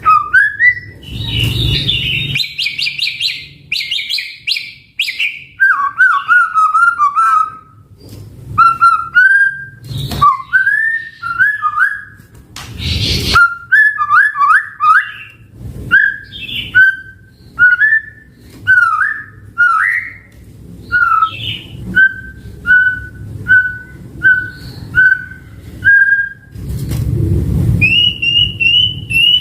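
White-rumped shama (murai batu) singing a varied run of loud whistled phrases, with fast high trills near the start and again near the end. In the later part it gives a string of single repeated whistles, about one a second, and a couple of sharp clicks come in the middle.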